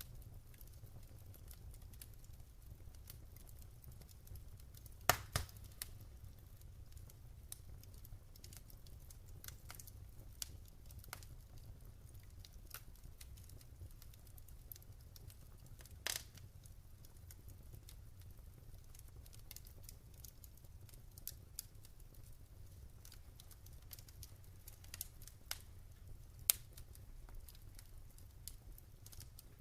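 Wood fire burning in a fireplace, crackling with scattered small pops over a steady low rumble, and a few louder snaps about five, sixteen and twenty-six seconds in.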